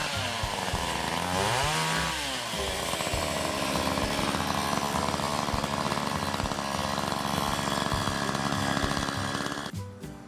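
Chainsaw engine revving up and down a few times, then running steadily at high speed, stopping abruptly near the end.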